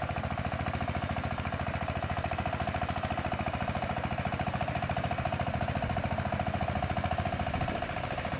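Small engine of a mini rotary tiller running steadily with a fast, even chugging pulse.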